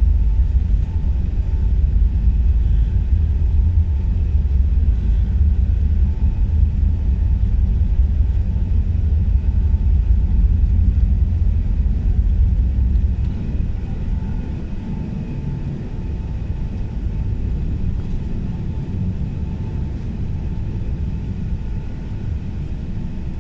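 Emirates Airbus A380 heard from inside the cabin during takeoff: a steady heavy low rumble with faint steady engine tones above it. The rumble eases about thirteen seconds in.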